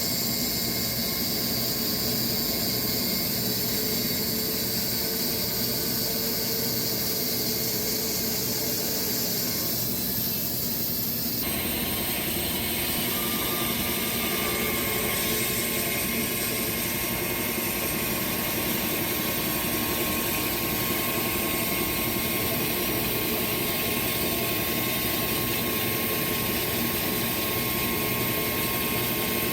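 Sawmill running steadily as it cuts through a Bastogne walnut log, a constant mechanical hum with a hissing cutting noise. About eleven seconds in the sound turns harsher and fuller.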